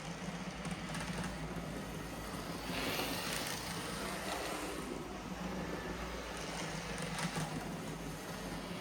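N gauge InterCity model locomotive running on track under its replacement motor: a steady small-motor hum with wheel-on-rail rumble that grows louder for a second or two about three seconds in.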